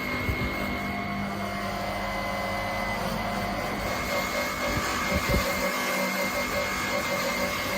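A power tool's motor running steadily, with a constant high whine over a low hum.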